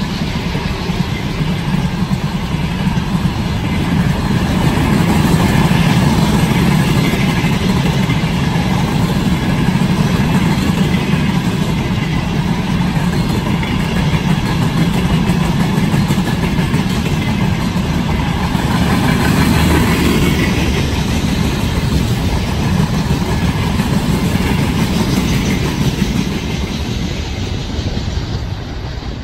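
Freight train rolling past: a loud, steady rumble of wheels on the rails, growing a little louder about four seconds in.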